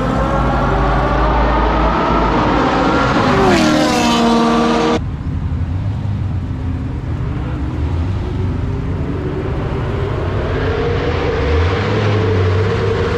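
Twin-turbo 427 cubic-inch V8 accelerating hard at full throttle. Its pitch climbs steadily, then drops sharply at a gear change about three and a half seconds in. The sound cuts off abruptly about five seconds in, and an engine is then heard pulling again, its pitch rising slowly.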